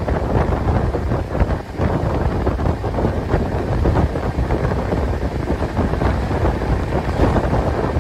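Wind buffeting a microphone held out of a moving express passenger train's window, over the steady rumble of the train running at speed, with a few short knocks.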